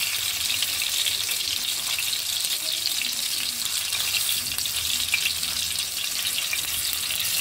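Chicken keema balls shallow-frying in hot oil in a steel pan: a steady crackling sizzle, with a metal spatula lightly nudging the balls around in the oil.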